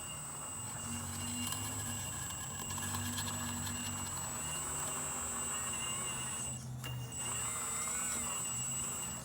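Radio-controlled hydraulic Cat 330D excavator model's electric pump motor running: a steady high electronic whine over a low hum that shifts in pitch as the hydraulic load changes, with a brief cut-out about two-thirds of the way in.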